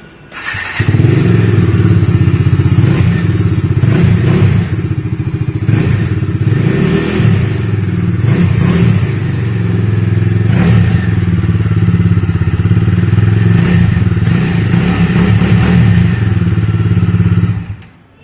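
Bajaj Dominar 250's single-cylinder BS6 engine starting up and running with a bassy exhaust note, with a few short blips of the throttle, then switched off near the end.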